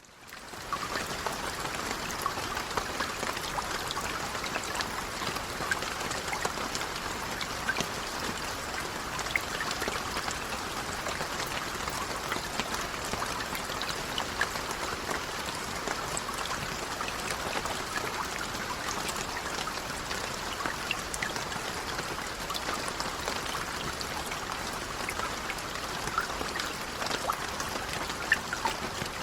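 Light rain falling: a steady hiss of rain with many small drop ticks. The sound drops out for a moment at the very start and fades back in within a second.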